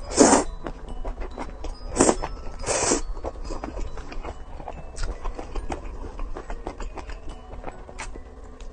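Close-up eating sounds: three short, loud noisy bursts in the first three seconds, like bites or slurps, then many small wet clicks of chewing.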